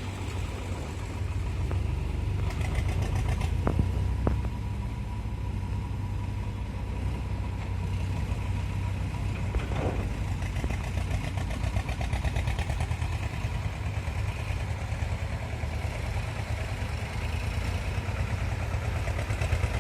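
Heavy diesel engine running steadily at low revs, with two sharp clicks about four seconds in.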